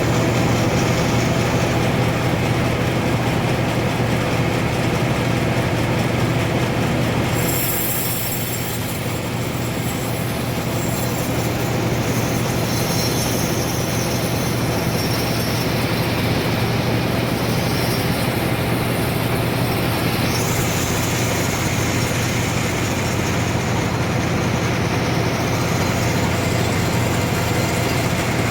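Sawmill running and cutting through a trembesi (rain tree) log into boards: a steady motor hum under a continuous high sawing hiss. The high part of the sound shifts and dips slightly about eight seconds in.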